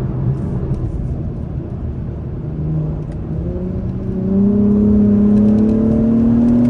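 2021 Acura TLX Type S's turbocharged V6 pulling hard under acceleration in Sport Plus, heard from inside the cabin over road rumble. About two seconds in the engine note rises steadily in pitch and grows louder as the revs climb through the gear.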